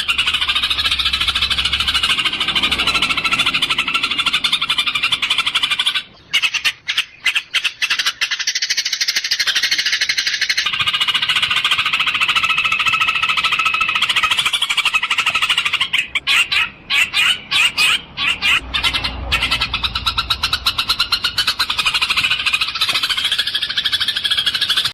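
Eurasian tree sparrows chattering in a fast, continuous run of chirps. The run breaks into separate chirps twice, about six seconds in and again about sixteen seconds in.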